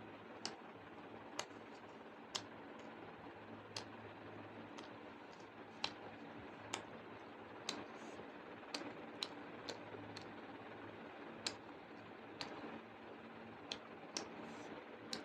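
Close-up eating sounds: sharp, irregular clicks, roughly one every second or so, over a faint steady hum while a meal of rice and curry is eaten.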